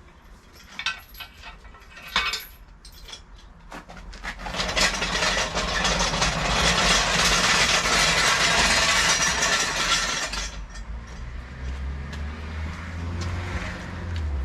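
A few clicks and knocks, then a motor vehicle's engine rises to a loud run for about six seconds and falls back to a lower, steady drone.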